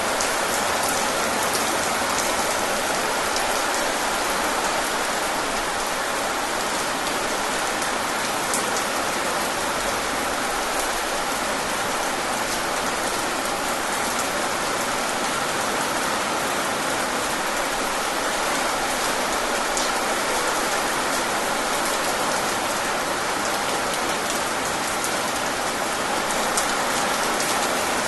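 Steady, even rain falling and pattering on surfaces, with many fine drop ticks and no change in strength.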